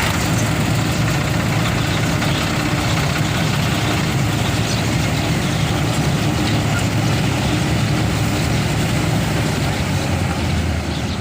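Diesel engine of a Mahindra tractor-driven combine harvester running steadily at work in a paddy field, a constant low engine drone with the machinery's noise over it.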